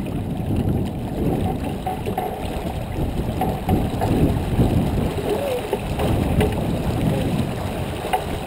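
Water rushing and gurgling along the hull of a J24 sailboat under way, mixed with wind buffeting the microphone; the noise swells and ebbs unevenly.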